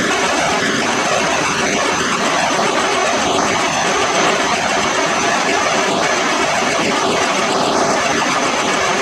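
Steady, loud mechanical noise with a faint high-pitched whine.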